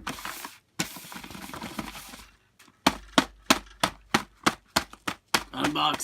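A package being opened by hand: two stretches of scratchy tearing noise, then a quick run of about nine sharp clicks, roughly three a second.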